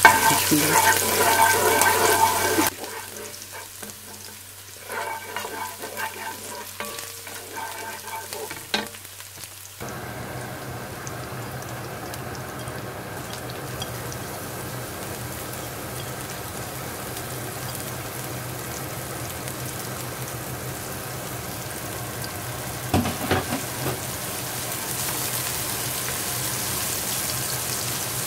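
Minced garlic and shallot sizzling in hot oil in a pot, stirred with a wooden spoon. The sizzle is loud for the first couple of seconds, drops off suddenly, and then settles into a steady quieter frying with a low hum beneath it.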